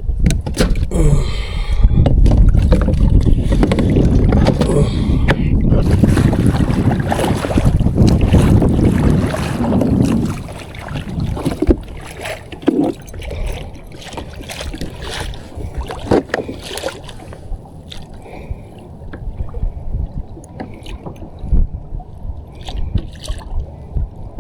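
Loud rumbling wind and water noise on a fishing kayak at sea, which dies down about ten seconds in. After that, scattered small knocks and clicks of gear being handled on the kayak.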